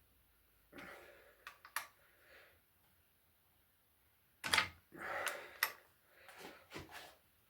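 Socket and wrench working a tight connecting-rod bearing cap bolt on an engine with its sump off: scattered metal clicks and knocks, busiest from about four and a half seconds in.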